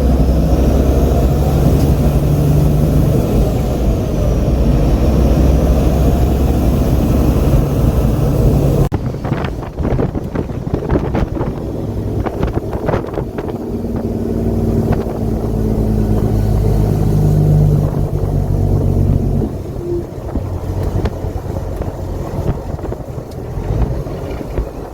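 Peterbilt semi truck's diesel engine running steadily, with wind noise on the microphone. The sound changes abruptly about nine seconds in, and the engine carries on after it with a few clicks.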